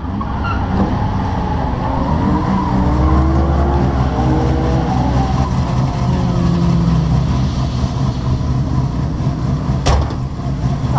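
Fox-body Mustang's 5.0-litre 302 V8 running while the car rolls slowly, then idling steadily once stopped, heard from inside the car. A single sharp knock about ten seconds in.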